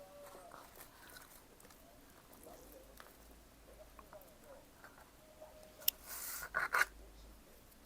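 Close-miked mouth sounds of a person chewing pizza: soft, wet chewing with small squeaks and ticks. About six seconds in there is a sharp click, then a louder noisy burst lasting under a second.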